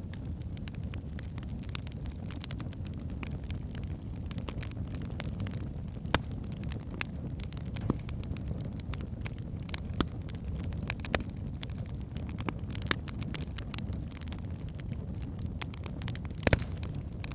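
Log fire burning in a fireplace: a steady low rumble of the flames with frequent sharp crackles and pops from the burning wood, a few of them louder.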